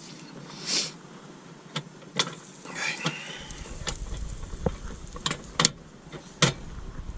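Cookware being handled: a series of sharp knocks and clicks from the metal pan and utensils, with a brief squeak about three seconds in. A low rumble comes in about halfway through.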